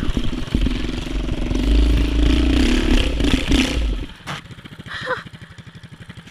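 Predator 212cc single-cylinder four-stroke engine of a mini bike running hard at high throttle, then dropping back to an even idle about four seconds in.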